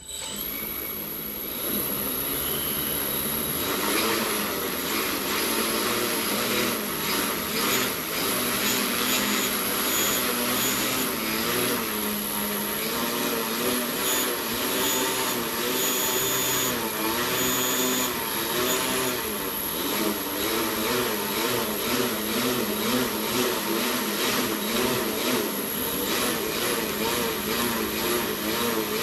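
A motor that starts suddenly and keeps running with a strange sound: its low tones waver up and down while a steady high-pitched whine sits above them.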